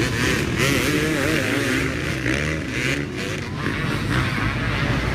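Many dirt bike engines running together, their overlapping pitches wavering up and down as riders blip the throttles, over a steady low drone.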